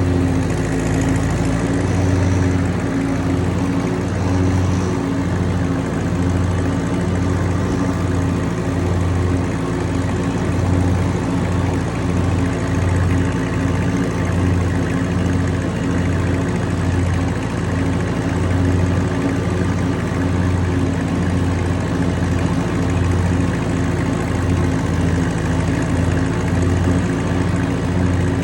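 A 1963 Ford 4000 tractor's engine running steadily at a constant speed while mowing, driving a six-foot Land Pride finish mower.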